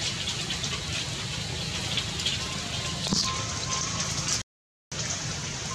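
Steady rain falling on stones and ground, an even hiss of drops. The sound cuts out completely for about half a second near the end.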